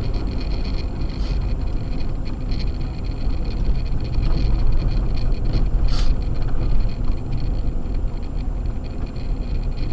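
Acura MDX being driven on a snow-covered road: a steady low rumble of engine and Sumitomo Ice Edge winter tyres, with one brief sharp tick about six seconds in.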